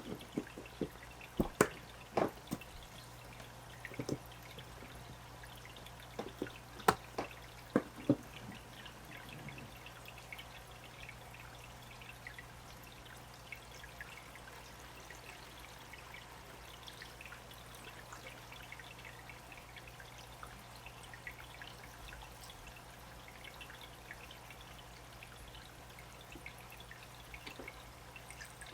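Water dripping and trickling in an aquarium being set up. A handful of sharp drips and splashes come in the first nine seconds or so, then a faint, steady trickle with scattered small drips.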